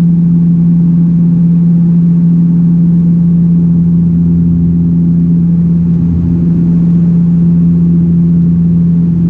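Steady drone of a Dash 8-402 (Q400)'s twin PW150A turboprops and six-blade propellers heard inside the passenger cabin in flight: a loud, constant low hum with a strong even tone.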